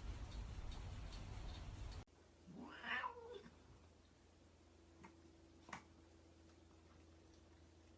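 A cat gives one drawn-out meow of about a second, its pitch rising and then falling. Before it there is a steady noisy hiss; after it come two sharp clicks and a faint steady hum.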